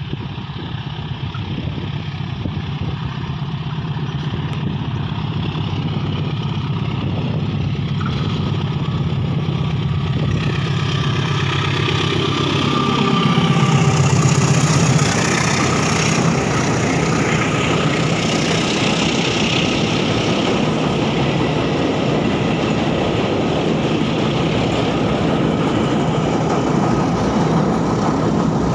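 A train approaches and passes, with its engine hum growing louder over about fourteen seconds and peaking as the locomotive goes by. It is followed by a steady rumble of wheels on rails as the cars roll past.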